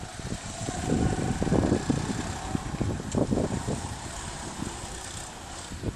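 Go-kart engines running on the track, one faint engine note rising and falling in the first couple of seconds over a rough low rumble.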